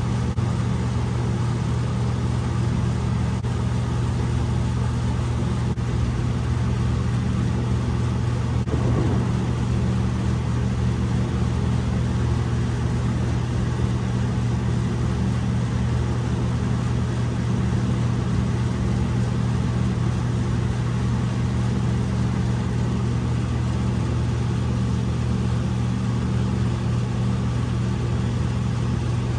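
Steady low motor hum, one even pitch with no rises or breaks.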